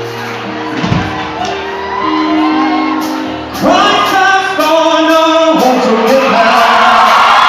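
Live gospel worship music in a large hall: held chords, then singing with shouts, louder from about halfway in.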